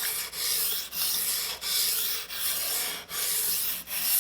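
Stainless steel knife blade being stroked back and forth across a wet 800-grit whetstone, a gritty scraping hiss repeated about six times, each stroke about two-thirds of a second long.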